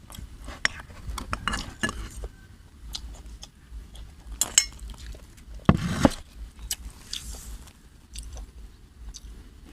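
Cutlery and dishes clinking and clattering during a meal: a run of scattered light clicks and taps, with a heavier knock about six seconds in.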